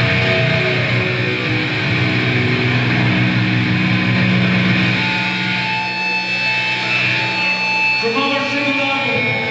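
Live grindcore band playing loud distorted electric guitar, with long held notes that change about eight seconds in.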